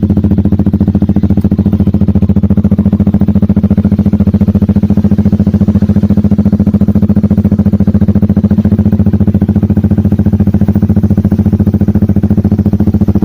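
Yamaha R15 V3's single-cylinder four-stroke engine idling steadily through an aftermarket Proliner Short exhaust, the exhaust note even and unchanging with no revving.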